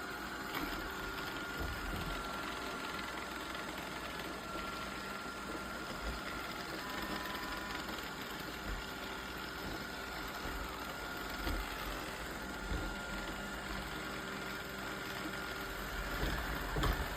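iRobot Roomba Combo Essential robot vacuum and mop running while cleaning: a steady motor hum with a thin, even whine, and a few soft knocks now and then.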